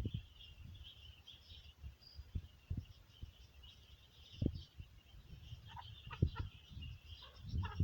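Birds chirping steadily in the background, with a few short calls from hens near the end, over scattered low knocks.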